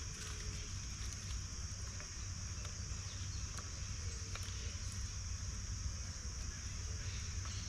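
Steady high-pitched chorus of night insects, with a low steady rumble beneath and a few faint clicks.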